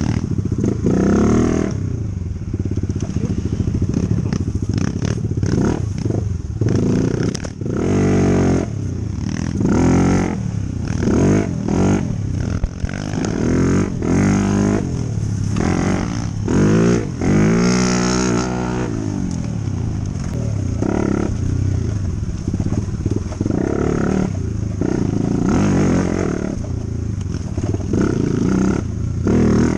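Dirt bike engine revving up and easing off again and again, the pitch climbing and dropping every second or two as the bike is ridden over a rough trail.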